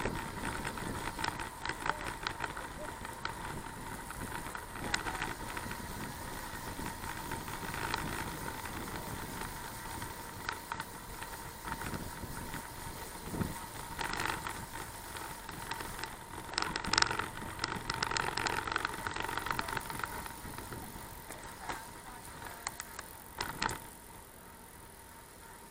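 Bicycle riding: a steady rush of road and wind noise with small rattles and clicks, and a faint steady whine running through it. It is busiest about two thirds of the way in and quieter near the end.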